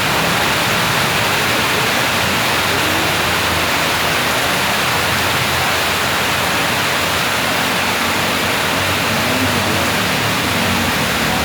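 Heavy rain falling, a steady, dense hiss. Near the end a motor vehicle's engine starts to come in faintly under it.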